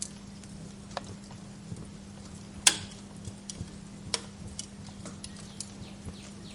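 Wood fire crackling in a fireplace: irregular small snaps and pops, with one loud pop about two and a half seconds in and another sharp one near four seconds, over a steady low hum.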